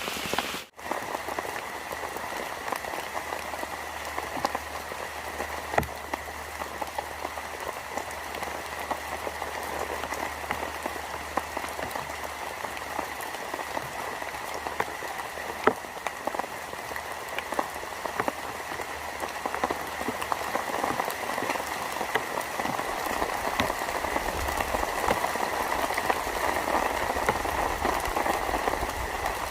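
Steady rain pattering, with scattered sharper drop ticks and a couple of louder single drops. The sound cuts out for a moment just after the start.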